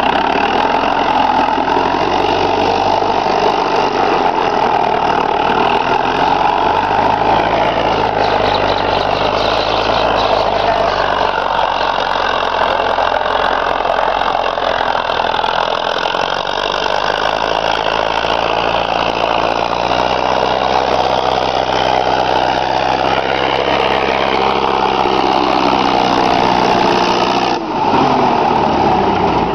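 Preet tractor's diesel engine running steadily, with a brief dip and a falling pitch near the end.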